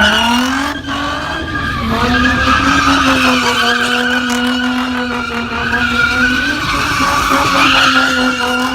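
A car's engine revs up and is held at high revs while its tyres spin and squeal in a burnout.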